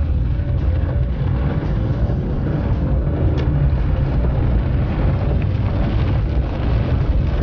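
Car engine running steadily as the car drives, a loud, mostly low-pitched sound with a faint wavering engine note above it.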